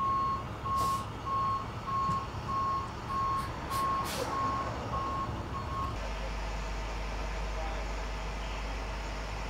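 A vehicle's backup alarm beeping at an even pace, about ten beeps, over a low engine rumble. It stops abruptly about six seconds in, leaving a steady low hum.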